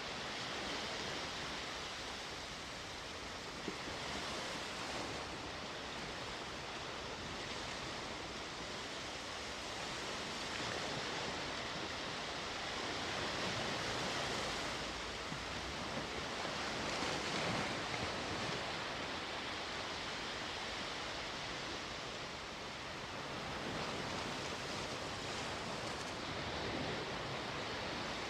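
Sea waves washing onto the shore in a steady hiss of surf, swelling and easing every few seconds as each wave comes in, the biggest surge about two-thirds of the way through.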